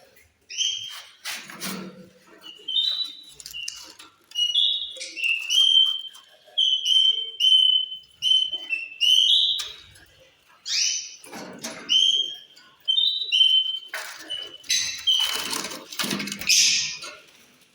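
A group of caged lovebirds chirping over and over in short, high notes, with some harsher, scratchier calls near the end.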